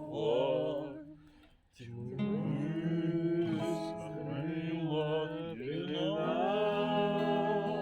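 Acoustic guitar playing with a gliding, wordless vocal melody over it. The music drops away briefly about a second in, then picks up again.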